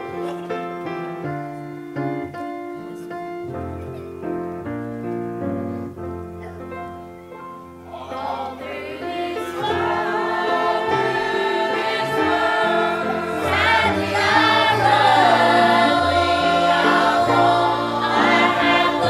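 Piano playing a hymn alone, joined about eight seconds in by a congregation or choir singing, and the singing grows louder.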